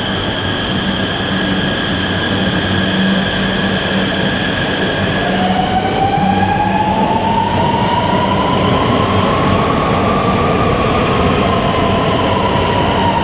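Namo Bharat RRTS electric train pulling away and gathering speed: a steady electric hum with a whine that rises in pitch from about five seconds in, then levels off near the end.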